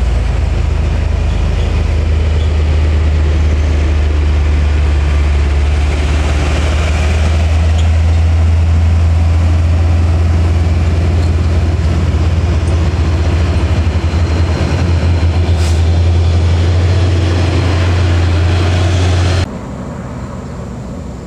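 Heavy truck engine running loud and steady with a deep low drone, stopping abruptly near the end.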